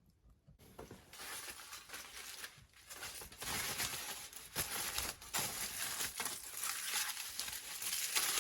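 Beef sizzling and spitting in a hot skillet, a dense crackling hiss that starts abruptly under a second in and grows louder a few seconds later.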